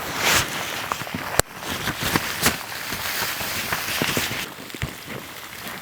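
Crunching and scraping in deep fresh snow, with a sharp knock about a second and a half in.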